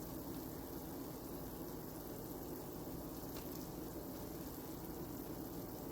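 Steady low background hiss and hum with no distinct event, apart from a faint click about three and a half seconds in.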